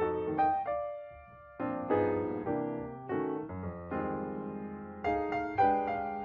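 Background piano music: notes played one after another with a short pause about a second in.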